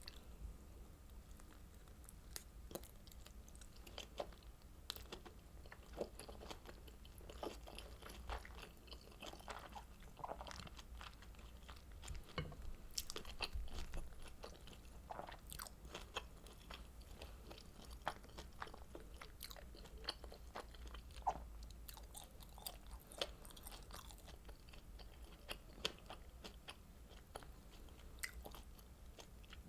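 Close-miked chewing and biting of kimchi dumplings dipped in creamy spicy sauce: soft, irregular mouth clicks and bites throughout.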